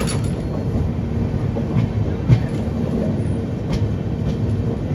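Express passenger train running along the track, heard from an open coach doorway: a steady rumble of wheels on rail, with a few sharp clicks.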